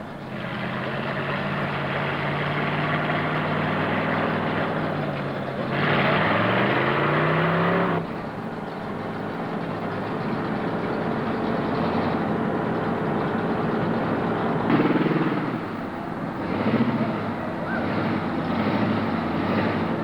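Mud truck engine running under load, revving up and down: its pitch swoops about six seconds in and again around fifteen seconds, with a sudden drop in loudness at about eight seconds.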